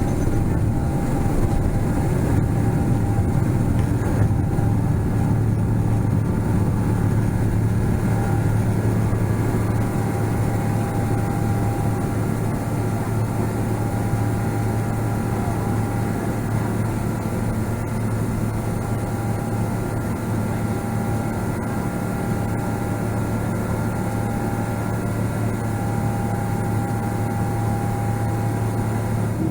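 Steady cabin noise inside a Boeing 777-300ER: a continuous drone of engines and airflow with a low hum, unchanging throughout.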